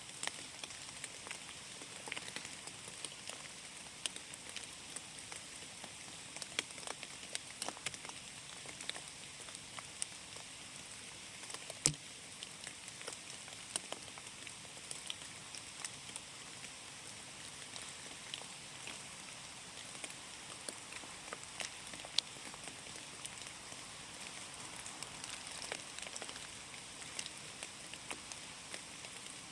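Steady rain falling through forest, an even hiss scattered with many sharp ticks of individual drops landing close by, one louder drop about twelve seconds in.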